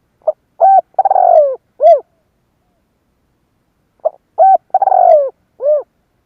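Spotted dove (Spilopelia chinensis) singing its cooing song twice, a few seconds apart. Each phrase is a short note, a held coo, a longer falling coo and a short closing coo. This is the cooing song that bird keepers play to provoke wild males into answering.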